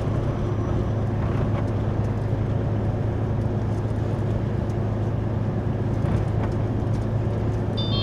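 Inside a moving truck's cab: a steady engine drone with road and wind noise while driving. A short high electronic beep sounds just before the end.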